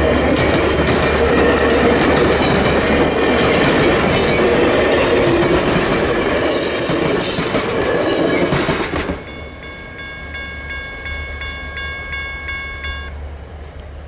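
Passenger cars of a Rocky Mountaineer train rolling over a level crossing, the wheels clicking over the rail joints, with a brief high wheel squeal about six to seven seconds in. The tail of the train clears about nine seconds in, leaving the crossing's General Signals Type 1 electronic bell ringing in even pulses for about four more seconds until it shuts off.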